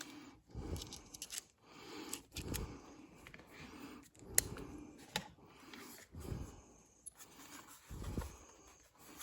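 Irregular light clicks, scrapes and dull knocks of hand work with a screwdriver and screws.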